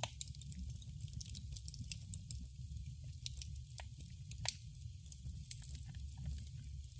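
Wood fire crackling in a fireplace: scattered sharp pops and snaps over a low, steady rumble of the flames, the loudest pop about four and a half seconds in.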